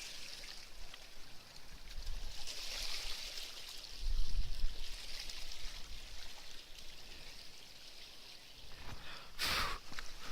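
River water running steadily, with low wind gusts buffeting the microphone about four seconds in and a brief rushing hiss near the end.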